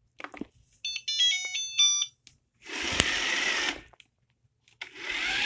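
Shark Ion robot vacuum playing a short electronic chime tune of stepped notes as its dock button is pressed. Two bursts of rushing noise follow, each about a second long, the first with a sharp click.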